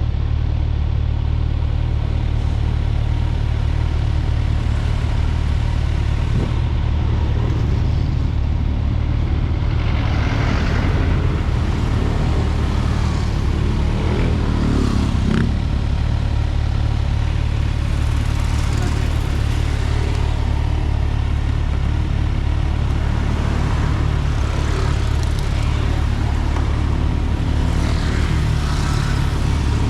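Motorcycle on the move at a steady pace: a constant low engine hum with road and wind noise over it, and another vehicle swelling past about halfway through.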